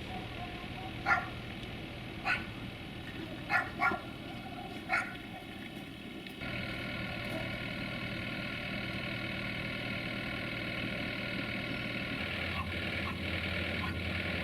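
A dog barks about five times in the first five seconds. From about six seconds a steady mechanical hum sets in, and near the end a deeper, pulsing diesel engine rumble joins it as a train comes into the station.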